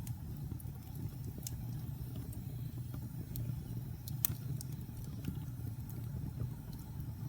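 Wood fire burning in a fireplace: a steady low rumble of flames with scattered sharp crackles and pops from the burning logs, the loudest pop a little past four seconds in.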